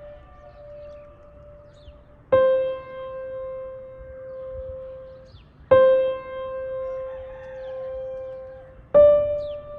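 Slow ambient piano music: single soft notes struck about every three and a half seconds, three times, each left to ring and fade.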